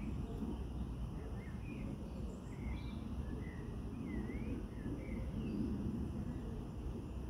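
Small birds chirping: short, scattered calls, several with quick rises and falls in pitch, over a steady low rumble of outdoor background noise.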